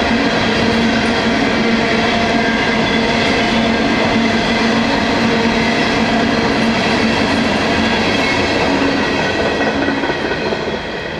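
Coal hopper cars of a long freight train rolling past on the rails: a steady, loud clatter of wheels, with thin steady whining tones over it. The noise falls away near the end as the last cars go by.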